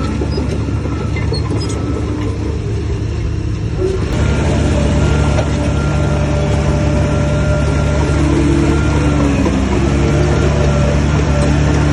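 Heavy diesel engine of earthmoving machinery running under load; it grows louder about four seconds in, with a brief dip in pitch later.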